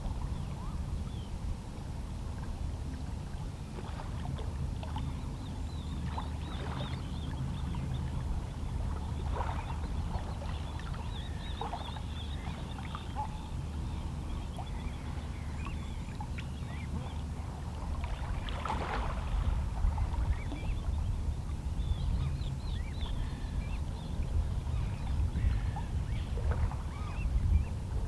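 Calm sea with small waves lapping and splashing against shoreline rocks, over a low steady rumble. Distant seabird calls now and then, and the lapping grows a little louder in the second half.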